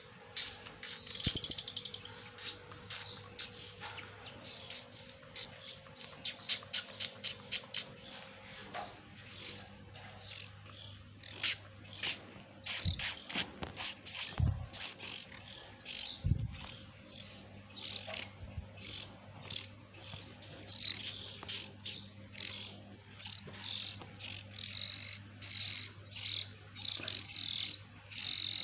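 Oriental magpie-robin chicks chirping: many short, high chirps in quick succession, with a few low thumps around the middle.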